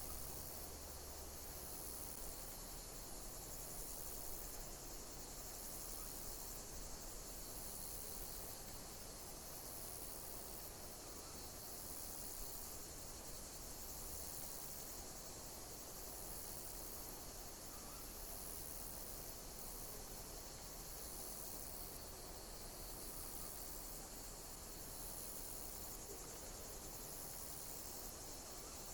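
Insects chirping in a high, steady chorus with a pattern that repeats about every two seconds.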